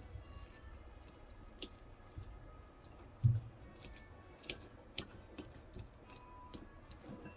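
Scattered light clicks and taps, with one low thump about three seconds in.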